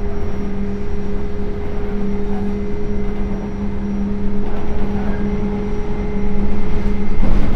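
Sotetsu New 7000 series electric train with a Hitachi GTO-VVVF inverter running along the line. Steady low tones from the inverter and traction motors sit over the rumble of wheels on rail. Near the end one of the tones drops out and a brief clatter follows.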